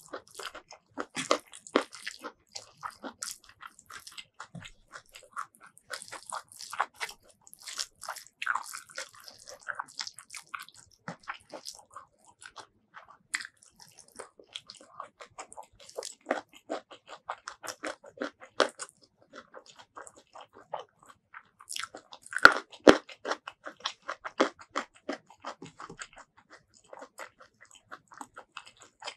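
Close-miked eating sounds: a person chewing and crunching food, with quick wet mouth clicks. A louder cluster of crunches comes about three-quarters of the way through.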